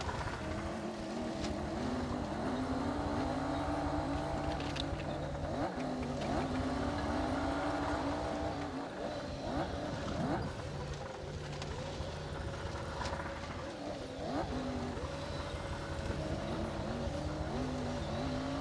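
Komatsu D60P bulldozer's diesel engine running steadily under load, its pitch swelling and easing, with occasional short metallic clicks and clanks.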